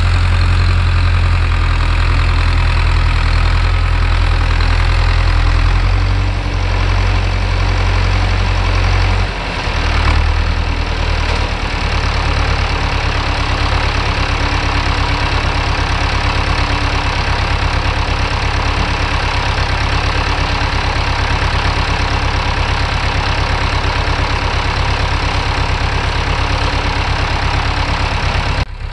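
Long 900 tractor's diesel engine running, its note shifting about six and nine seconds in and then settling into an even chug. The injector pump is freshly rebuilt and still not giving full engine RPM.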